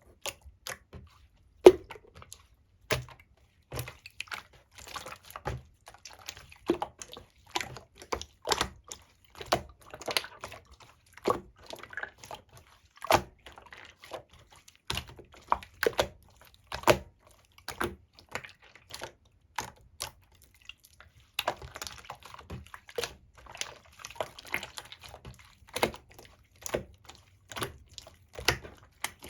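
Soft, wet yogurt-pudding slime being squeezed and pressed by hand, giving irregular sticky clicks and pops, with a brief pause about two-thirds of the way through.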